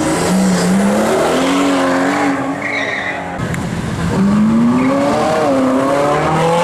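A performance car accelerating hard away from a standstill, its engine revving up through a gear, dropping in pitch at a shift about three seconds in, then climbing again.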